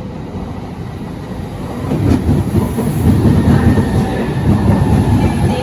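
Southeastern Class 395 Javelin electric multiple unit running into the platform: a steady rumble of wheels on rail that grows louder about two seconds in, with a faint steady electric whine over it.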